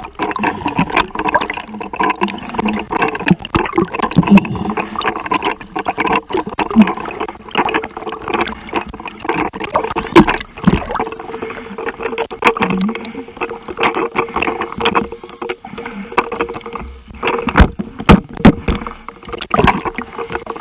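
Sea water splashing and sloshing close to the microphone in irregular strokes and knocks, with a steady hum joining about halfway through.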